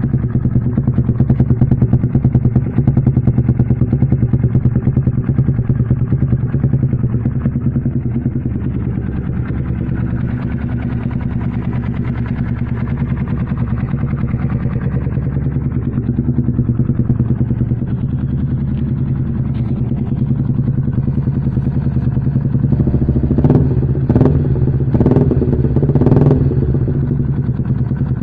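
Yamaha Vixion single-cylinder four-stroke motorcycle engine running steadily through an aftermarket stainless-steel exhaust, a loud, even exhaust note, with a few short rises near the end.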